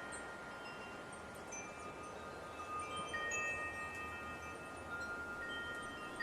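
Wind chimes ringing softly and irregularly, several tones overlapping and each ringing on for a second or more, over a faint hiss of light wind.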